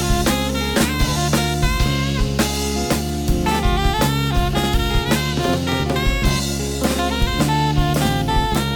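Instrumental jazz quartet playing: an alto saxophone carries a stepping melody over a busy drum kit with steady cymbal and snare hits and an electric bass line.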